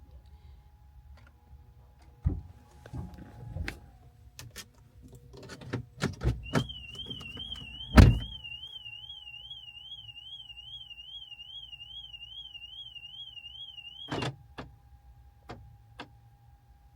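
Car alarm going off: a high warbling siren that rises and falls about two and a half times a second for roughly eight seconds, then cuts off suddenly. It is set off by opening the door from inside the locked car, among clicks of the locks and door handle and a heavy door thump.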